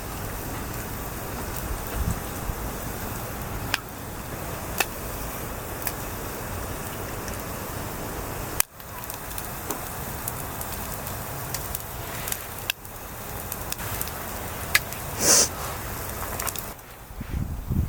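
Wood fire crackling: a steady hiss with scattered sharp pops.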